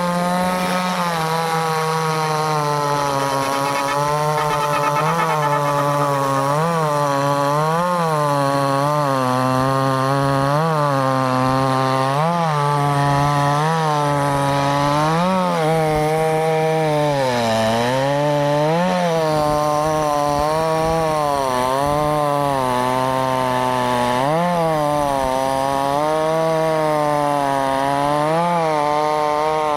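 Two-stroke chainsaw running steadily while cutting wood. Its engine pitch dips and recovers every second or two as the cut loads it.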